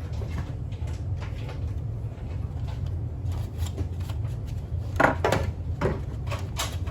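Scattered clicks and knocks of hard parts being handled, the loudest about five seconds in, over a steady low hum.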